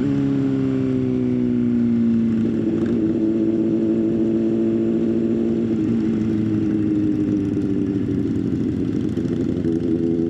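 Motorcycle engine running under way. Its pitch slowly sags, then steps up about two and a half seconds in, drifts down again, and changes once or twice more later on.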